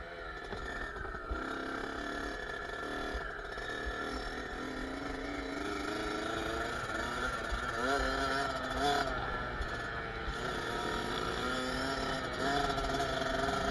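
Kawasaki KX65's small two-stroke single-cylinder engine running, its pitch shifting up and down as the throttle changes, with a wavering rise about eight seconds in and a louder, steadier run near the end.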